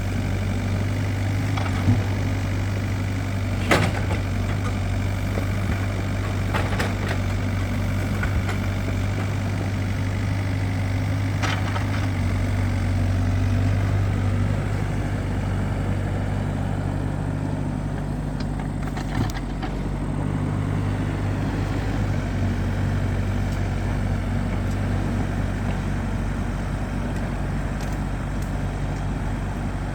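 A heavy engine running steadily, its hum shifting in pitch about midway, with a handful of sharp knocks scattered through.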